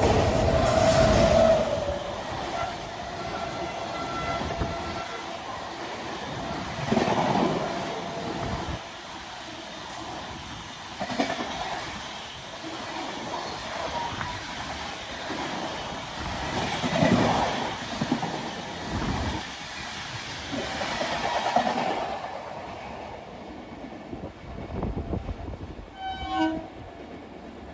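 An express train running through at speed, its horn sounding in the first second or two, then the rush of passing coaches with repeated louder wheel thuds, dying away about 22 seconds in.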